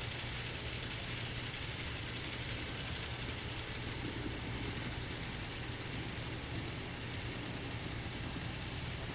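N scale model diesel locomotives running on the layout: a steady, even hum with a hiss over it.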